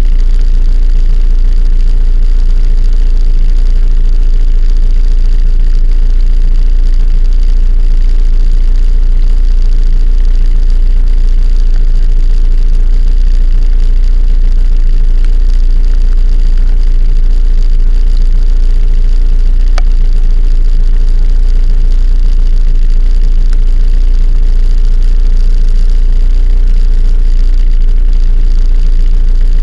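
A vehicle engine running steadily with a heavy, constant low rumble.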